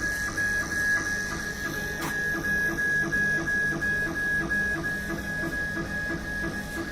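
KAMACH 1610 CO2 laser cutting and engraving machine running, its head moving back and forth with regular knocks about three times a second. Under them are a steady high whine and a low hum.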